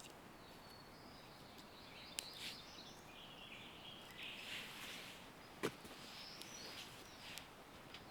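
Faint birdsong: scattered short chirps from woodland birds, with two sharp clicks, one about two seconds in and a louder one a little past the middle.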